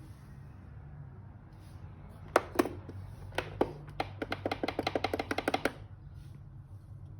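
A steady low hum with a run of sharp clicks about two and a half seconds in: a few scattered at first, then a quick train of about nine a second that stops abruptly after a second and a half.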